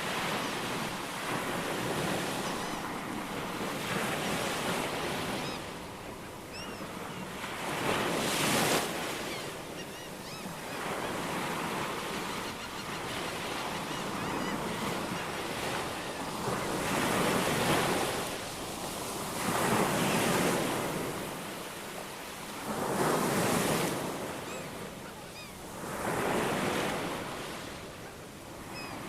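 Ocean waves breaking and washing ashore, swelling and ebbing every few seconds, with a few faint short bird chirps above the surf.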